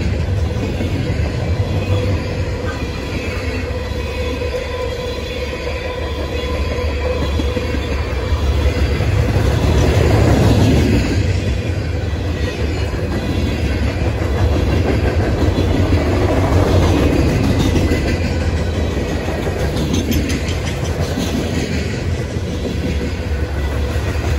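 Freight cars of a Norfolk Southern manifest train rolling past, with the steady heavy rumble of steel wheels on rail. A thin steady wheel squeal runs through the first half, and the rumble swells about ten seconds in and again near seventeen.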